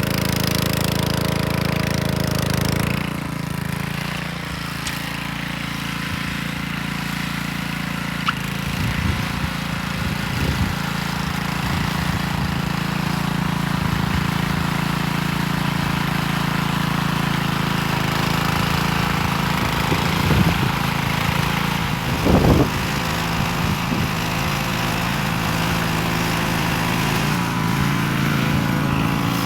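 Small engine of a walk-behind tiller running steadily as it churns soil, its note changing about three seconds in. A few short knocks come through, the loudest about two-thirds of the way through.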